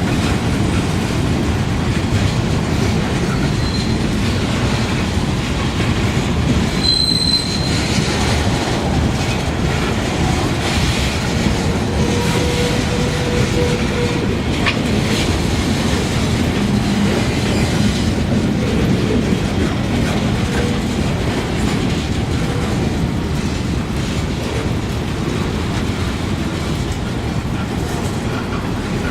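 A train's cars rolling past on the rails: a steady, loud rumble with wheel clatter. A brief high-pitched wheel squeal comes about seven seconds in, and a fainter, lower squeal a few seconds later.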